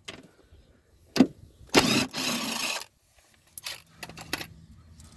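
Hands working a car's plastic inner fender liner and fasteners: a sharp click about a second in, a scraping rustle lasting about a second, then a few light clicks.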